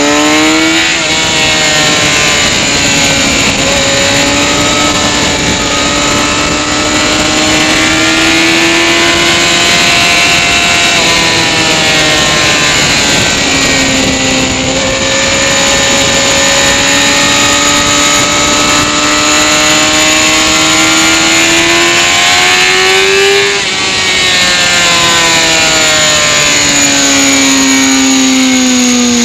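Sport motorcycle engine running hard on a race track, with wind rushing over the microphone. The engine note climbs steadily for about ten seconds and falls away. It climbs again for about nine seconds, then drops sharply with a brief dip in level and sinks toward the end.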